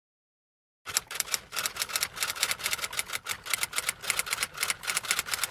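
Keys being typed fast: a dense, uneven run of sharp clicks, about eight a second, starting about a second in.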